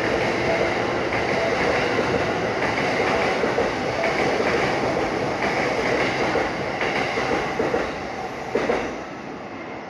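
Steady, loud rumble and rattle of a train running on rails through the station, with a sharp knock about eight and a half seconds in, after which the noise fades.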